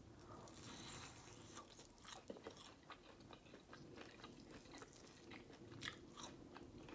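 Faint chewing of a fried chicken wing, with small crunches and clicks scattered irregularly through it.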